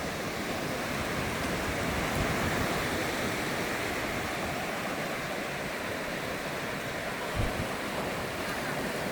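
Ocean surf washing up the beach: a steady rush of breaking water that swells a little a couple of seconds in. A brief low thump about seven seconds in.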